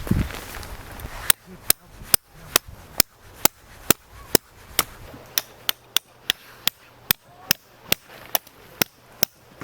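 Repeated hammer strikes: about twenty sharp, evenly spaced blows, a little over two a second, starting about a second in.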